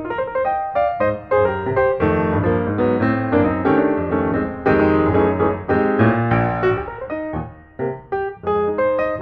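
Solo piano music playing a steady run of notes, with a short lull about seven seconds in.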